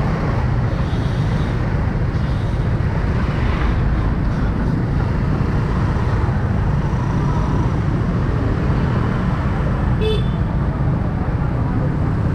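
Riding a motorcycle through city traffic: a steady low rumble of engine, wind and road noise, with a brief high-pitched beep about ten seconds in.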